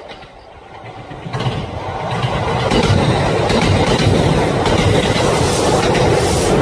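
Kintetsu electric train passing close by: the sound of its wheels on the rails builds over the first two seconds into a loud, steady rumble with the clickety-clack of the rail joints.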